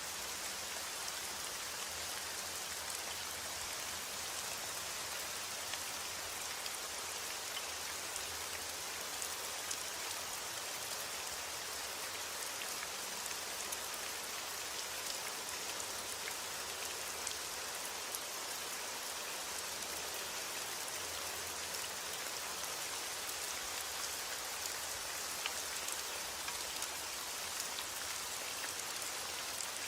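Steady heavy rain falling, a dense even hiss with fine patter of individual drops hitting a surface.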